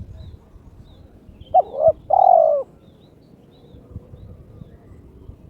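Spotted dove (terkukur) giving one cooing phrase about a second and a half in: a quick two-part note followed by a longer coo that falls at the end. This is the call of a male in breeding condition calling out a rival.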